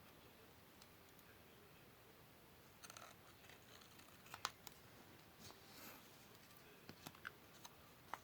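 Scissors snipping paper: faint, scattered short snips and clicks begin about three seconds in, the sharpest one near the middle.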